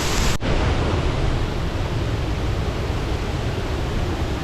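Steady rush of falling water from a waterfall in monsoon flow. A sudden break about half a second in leaves it duller in the top end.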